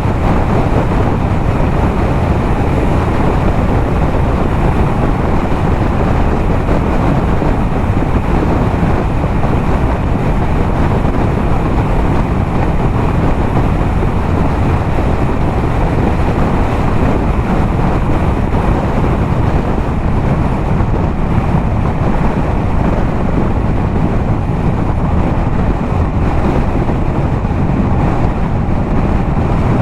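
Yamaha MT-07 parallel-twin motorcycle with a LeoVince aftermarket exhaust cruising steadily at highway speed, its engine and exhaust heard under heavy wind rushing over the action-camera microphone.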